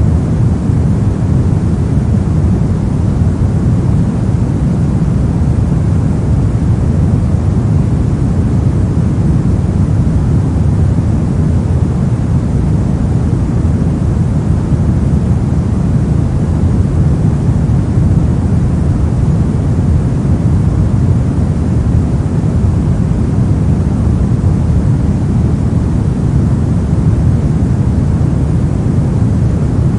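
Steady pink noise: an even, unchanging hiss with most of its weight in the low end.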